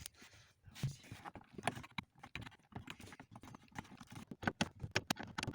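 Hand work on car parts with tools: irregular light clicks and knocks of plastic and metal, coming thicker in the last second or so.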